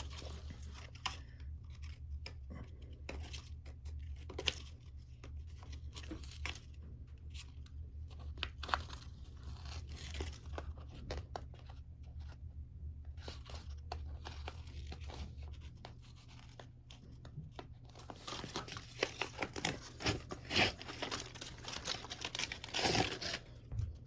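Paper backing being peeled off a sheet of new skateboard grip tape: a run of short tearing and crinkling crackles that gets busier toward the end.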